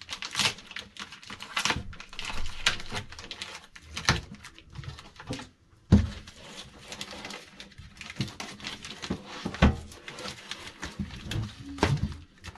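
Packaging being handled during an unboxing: continuous crinkling and rustling with many small clicks, and two sharp knocks, one about halfway through and another a few seconds later.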